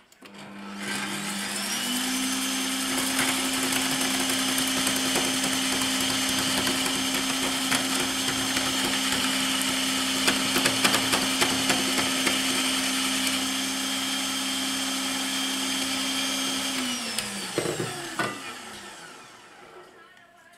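Bosch MFW3640A electric meat mincer's motor switched on, its whine rising to a steady pitch within about two seconds and running steadily with scattered clicks. About seventeen seconds in it is switched off and winds down, the pitch falling as it stops.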